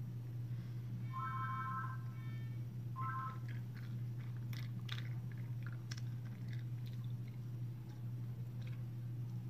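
Close-up chewing and crunching of a crunchy cookie with pretzel pieces, a run of sharp crackles through the middle and later part, over a steady low hum. A brief high steady tone sounds twice in the first few seconds.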